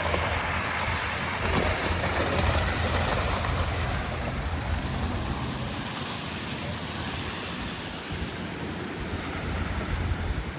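City street traffic on a slushy road: vehicles passing with a hiss of tyres through wet slush, swelling over the first few seconds and then easing off.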